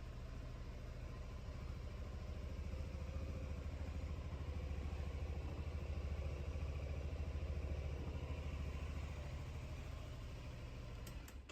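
Honda Forza 350's liquid-cooled 330 cc single-cylinder engine running steadily at idle, then stopping abruptly near the end.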